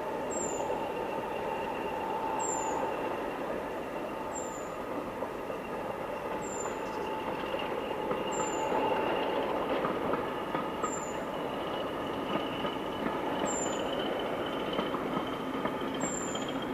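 Diesel-hauled heritage train running along the line: a steady rumble of wheels on rail with a faint high whine that rises slightly near the end.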